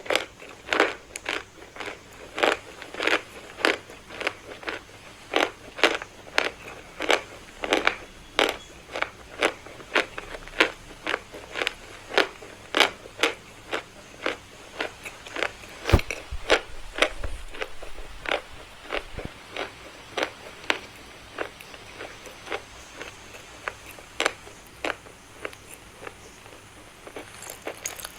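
Chalk being bitten and chewed close to the microphone: sharp, crisp crunches about one to two a second, growing sparser and softer in the last third, with one louder knock and low thud about halfway through.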